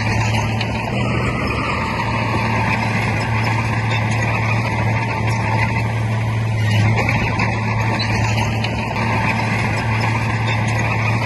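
Bulldozer's heavy diesel engine running steadily under load: a low, constant drone with a higher whine over it that rises and falls twice.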